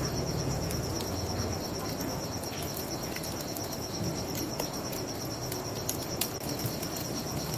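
Crickets chirping in a steady, fast-pulsing trill, over a wood fire crackling with scattered sharp pops and a low steady rush beneath.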